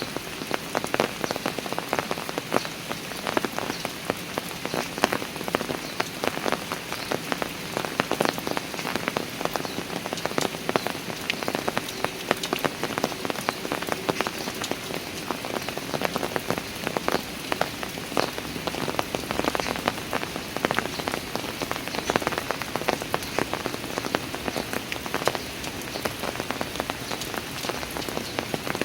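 Steady rain falling on park stairs, with a dense patter of individual drops hitting hard surfaces.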